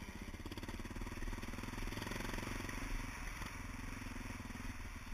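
Suzuki DR650's single-cylinder four-stroke engine running steadily as the dual-sport bike rides along a dirt track, heard from on the rider.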